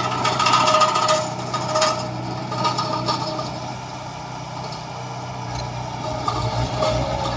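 Heavy diesel construction machinery running steadily, with metallic clanks and knocks over the first few seconds.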